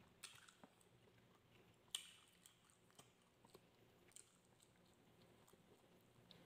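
Faint chewing of a mouthful of rice and barbecue, heard as sparse soft mouth clicks over near silence. The sharpest click comes about two seconds in.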